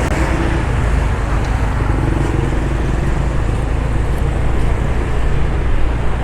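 Steady road and engine noise of a car driving along a street, with a deep, even rumble.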